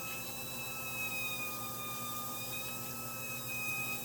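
Whirlpool top-load washer making a steady high-pitched squeal, a thin whistling tone that wavers slightly in pitch, over a low machine hum.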